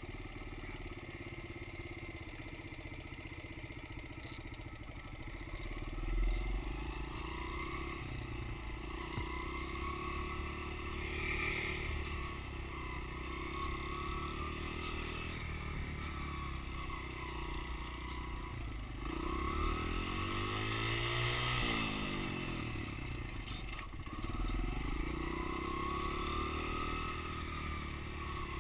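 Dirt bike engine running, its pitch rising and falling several times as the throttle is opened and eased off, with the strongest rev-up about two-thirds of the way through.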